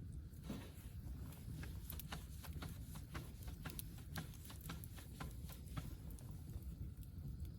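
Wood fire crackling: many sharp, irregular snaps and pops over a low steady rumble.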